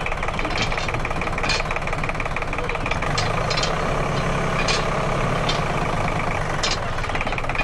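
An engine running steadily at idle with a fast, even chugging, and a few short clicks scattered through it.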